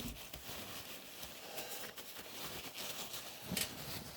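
Cloth rubbing over the stripped die-cast metal body of a toy truck as it is dried off: a faint scuffing with light handling clicks, one a little louder about three and a half seconds in.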